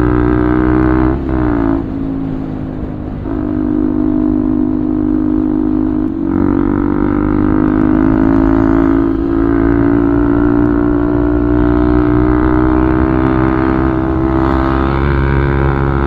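Bajaj Pulsar 200's single-cylinder engine running through an aftermarket Akrapovic full-system exhaust as the motorcycle rides on. The note dips briefly about four times as gears change and climbs slowly in between.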